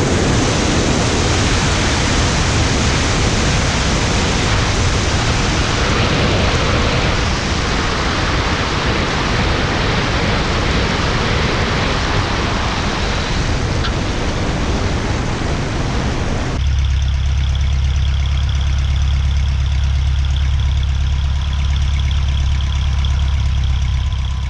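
Cessna 150H's Continental O-200 engine and propeller running, with a steady rushing noise. About two-thirds of the way in it switches abruptly to a deeper, lower drone, which fades out at the end.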